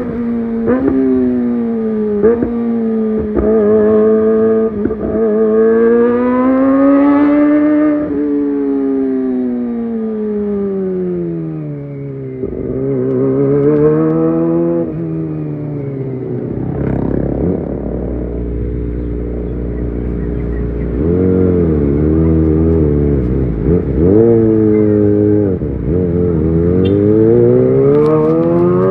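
Kawasaki ZX25R 250 cc inline-four through a LeoVince GP Evo high-mount exhaust, revving up and down over and over. The pitch climbs with brief breaks in the first few seconds, then falls away, and it rises and drops again several times near the end.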